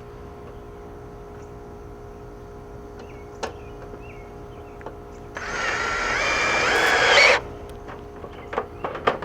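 A power drill runs for about two seconds, its pitch stepping upward as it speeds up, then stops abruptly; a few short knocks follow near the end.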